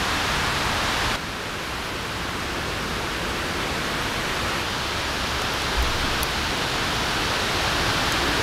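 Steady rushing outdoor noise in the woods, an even hiss with no tune or voice, which drops and changes character abruptly about a second in.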